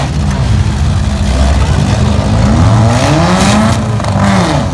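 Demolition derby car engines running loudly under a steady low drone, one revving up and falling back twice in quick succession.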